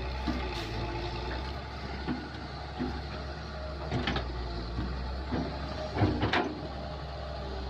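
Kobelco excavator's diesel engine running steadily, with a few sharp knocks about four seconds in and a louder cluster of knocks around six seconds.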